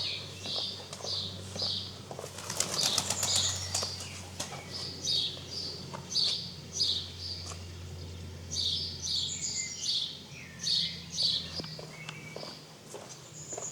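A songbird singing, repeating short high notes two or three times a second, with a burst of rapid bird wing-flaps about two to three seconds in.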